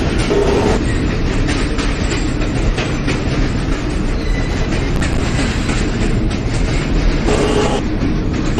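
New York City subway train running on rails, heard from inside the car: a steady rumble with wheel clatter on the track. A brief tone sounds about seven and a half seconds in.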